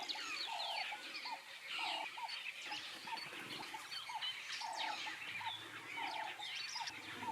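A flock of helmeted guineafowl calling, a repeated cackle of longer and shorter notes. Many quick, higher chirps run over it.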